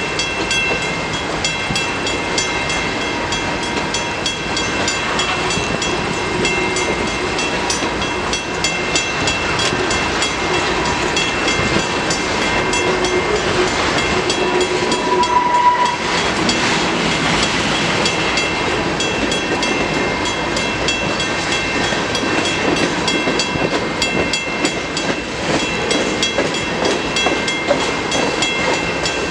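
Freight cars of a CN manifest train rolling past, wheels clicking steadily over the rails with a continuous high whine of steel wheels. A brief louder squeal comes about halfway through.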